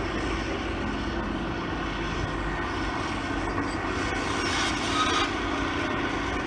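Heavy excavator diesel engine running with a steady drone, and a brief louder burst of noise about five seconds in.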